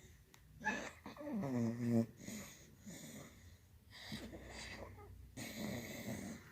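A sleeping dog snoring and wheezing as it dreams, with a pitched moan about a second and a half in, the loudest sound here, and breathy snores later on.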